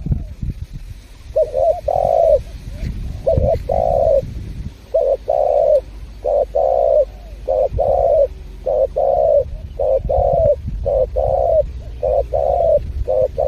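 Spotted dove (tekukur) cooing over and over in a steady run of mellow hooting notes, often a short coo leading into a longer one, over a low rumble.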